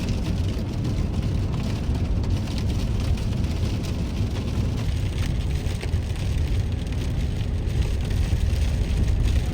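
Steady road and engine rumble inside a 2015 Kia Sedona minivan driving on a wet, snowy day, with an even hiss over it.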